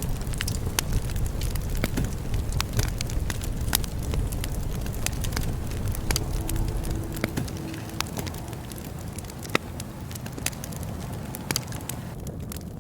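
Wood bonfire burning, with irregular sharp crackles and pops over a low, steady rumble of flame.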